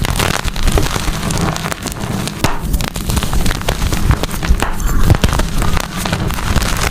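Gym chalk being crushed and crumbled, a dense, continuous run of crunches and crackles.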